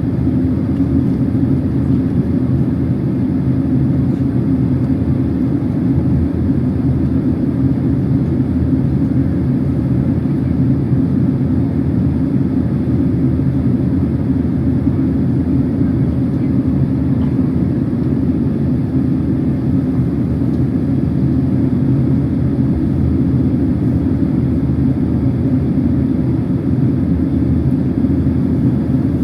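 Steady cabin noise inside a Boeing 767-300 airliner in flight: a constant low rumble of engines and airflow with a faint steady hum, unchanging throughout.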